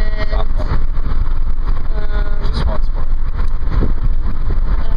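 Steady low rumble of a vehicle on the move, with two brief high-pitched voice-like sounds near the start and about two seconds in.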